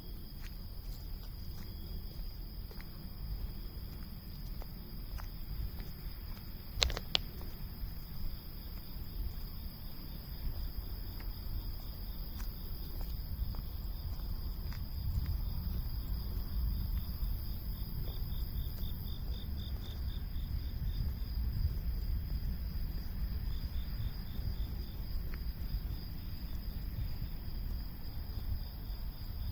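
Cicadas calling: a steady high buzzing chorus, with a faster pulsing call that swells and fades twice. A low rumble runs underneath, and there is one sharp knock about seven seconds in.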